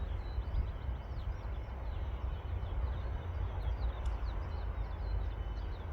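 Small birds chirping, many short, high chirps, several of them falling in pitch, over a steady low rumble.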